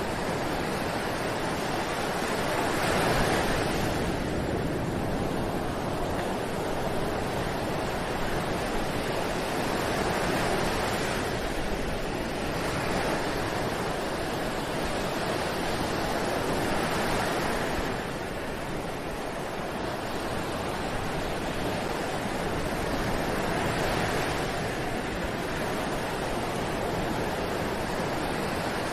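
Ocean surf: waves breaking and washing on a beach in a continuous rush, swelling louder every few seconds as each wave comes in.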